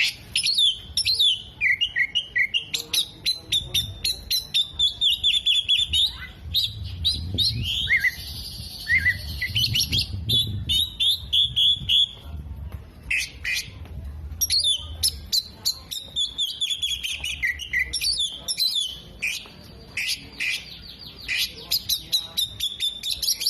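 Oriental magpie-robin (kacer) singing continuously in fast runs of chirps, trills and short whistled notes, a varied song that takes in mimicked calls of other birds.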